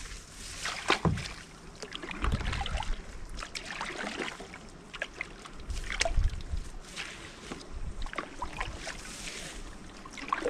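Kayak paddle strokes splashing in the water, a stroke every second or two.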